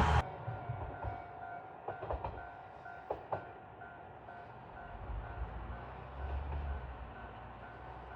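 Kishu Railway KR301 diesel railcar running at a distance: a low engine rumble that swells a few seconds in, and a few sharp clicks of wheels over rail joints. A faint high beep repeats about four times a second throughout.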